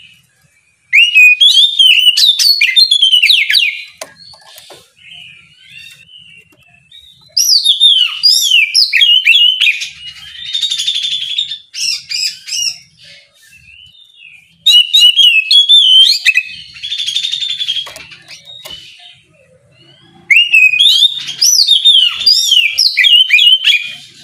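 Oriental magpie-robin (kacer) in full loud song, delivered in four bursts of three to four seconds with short pauses between them. The bursts mix rapid whistled, gliding notes with harsh rasping rattles.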